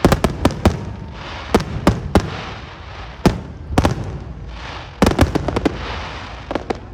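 Fireworks display: aerial shells bursting in sharp bangs, some in quick runs of three or four, with a steady crackle and hiss between them.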